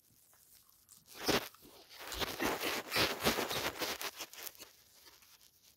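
Plastic Lego pieces clicking and scraping as a Lego train model is handled and moved along. There is one knock about a second in, then a couple of seconds of rapid crunchy clicking and rubbing.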